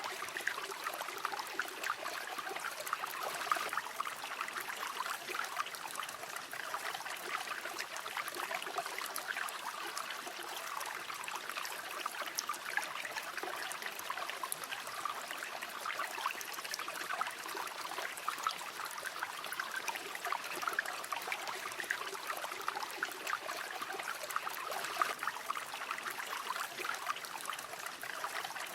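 River water flowing and burbling steadily over stones, a continuous babbling of running water.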